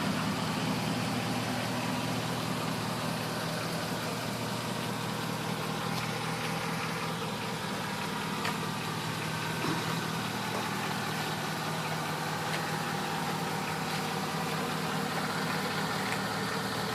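2003 GMC Sierra 1500 pickup's engine idling steadily.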